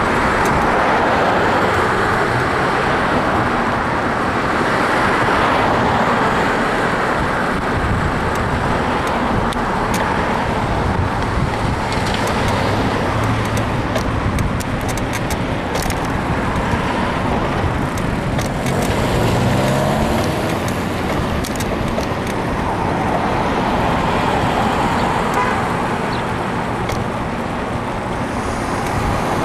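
Road traffic passing close by, heard from a moving bicycle with a steady rush of wind-like noise; about 19 seconds in, a vehicle's engine rises in pitch as it speeds up. A few short sharp clicks come through between about 10 and 17 seconds in.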